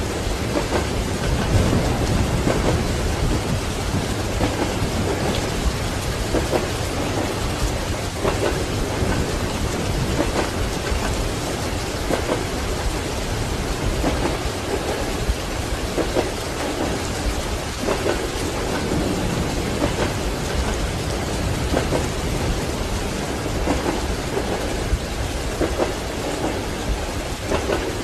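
Steady heavy rain with a continuous low rumble of thunder, dense with the patter of raindrops.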